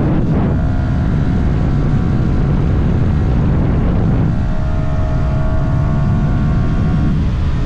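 Yamaha R125's stock-exhausted 125 cc single-cylinder four-stroke engine pulling under acceleration, its pitch climbing slowly. It dips briefly just after the start and again near the end, as at upshifts. Heavy wind rush lies underneath.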